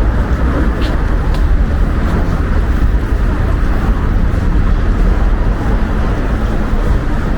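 Wind buffeting the microphone in a steady low rumble, over city street noise.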